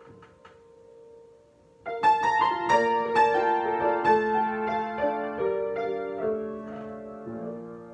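Piano improvisation: a quiet held note dies away, then about two seconds in loud chords and moving notes begin and carry on before softening near the end.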